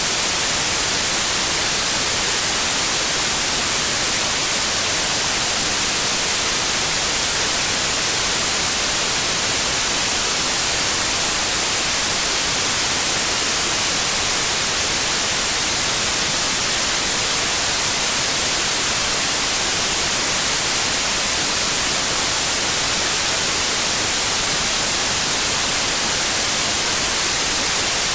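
Steady white noise: an even, unchanging hiss across the whole range, brightest in the treble, with no changes in level.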